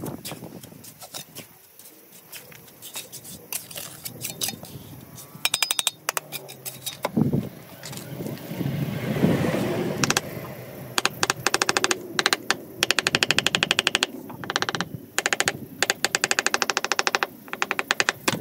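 Fast, evenly spaced mechanical knocking in several bursts, stopping and starting, like a percussive power tool hammering on masonry.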